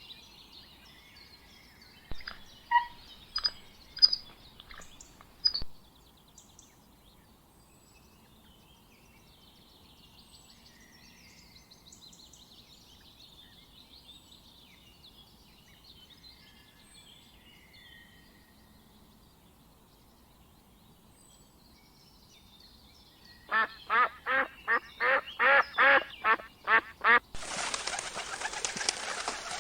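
Birds chirping and twittering, with a few sharp clicks in the first seconds. Near the end comes a run of about ten loud, harsh calls, a few a second, and then a dense rushing noise.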